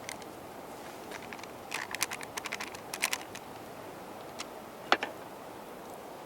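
A run of small clicks and light taps about two to three seconds in, then one sharper click with a short ring about five seconds in, over a steady low hiss.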